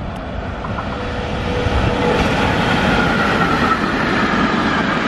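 Freight train of tank wagons behind a Traxx 3 locomotive rolling past on the tracks, the rolling noise growing louder over the first two seconds and then holding steady, with a faint high whine from about two seconds in.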